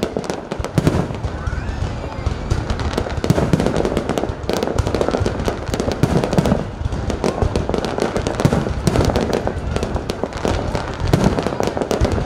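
Fireworks display: a dense, continuous run of bangs and crackling from bursting shells, with heavier booms scattered through.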